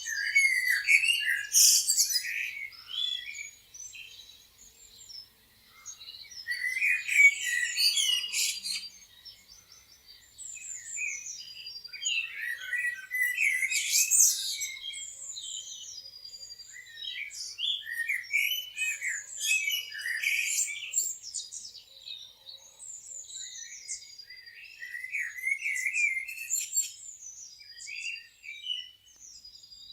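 Several small songbirds chirping and singing together, a dense mix of overlapping high chirps, trills and short whistles that swells louder every few seconds.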